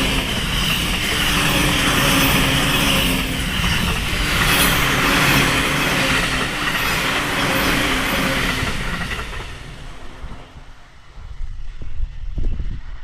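A JR East E235-1000 series electric train running past, its wheels and running gear loud with a steady hum under the noise. The train sound dies away about ten seconds in, leaving wind buffeting the microphone.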